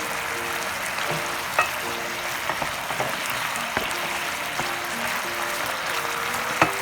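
Food sizzling steadily in a hot pan, with a few sharp clicks of a utensil, the loudest near the end, under background music with a simple melody.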